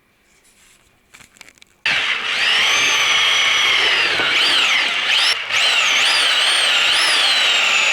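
Electric power tool motor starting abruptly and running loudly. Its whine rises and falls in pitch as the speed changes, with a brief stop and restart about halfway through.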